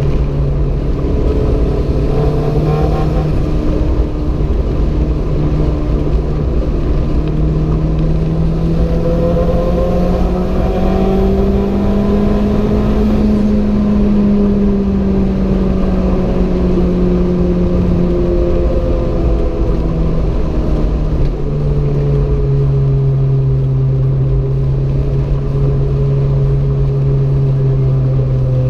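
Renault 5 GT Turbo's 1.4-litre turbocharged four-cylinder engine pulling under load, its note climbing slowly for the first dozen seconds and then easing back. About twenty seconds in the pitch drops sharply, and the engine then holds a steady lower note over a constant low rumble.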